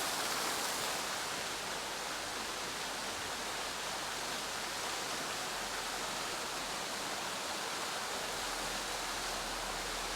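Steady rush of a large waterfall, a continuous even roar of falling water.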